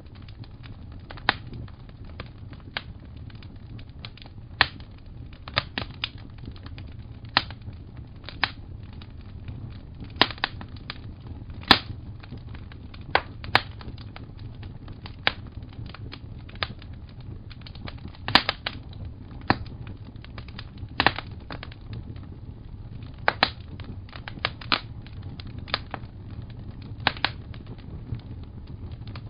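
Wood fire crackling: irregular sharp pops and snaps, about one or two a second and uneven in loudness, over a low steady rumble.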